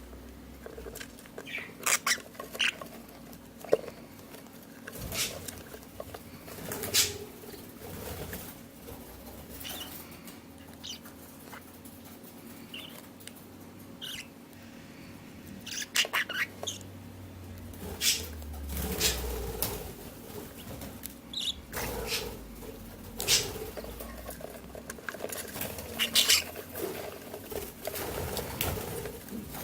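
Month-old budgerigar chicks moving about: irregular short scratches, shuffles and brief wing flaps, with a faint steady hum underneath.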